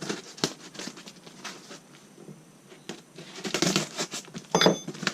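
A cardboard parcel being opened by hand: scattered scrapes, taps and rustles of cardboard and packing material. The rustling thickens about three and a half seconds in, and a short, sharp squeak comes just after.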